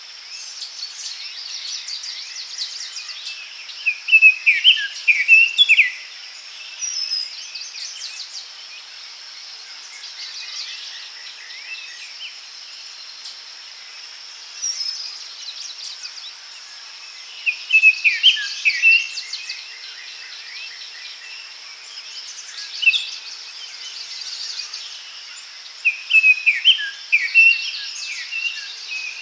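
Daytime forest ambience: songbirds singing repeated short phrases of quick chirps every few seconds over a steady high insect drone.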